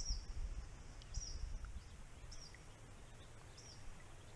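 A bird repeating a short, high, down-slurred call about once every second, over a low rumble that is strongest at the start.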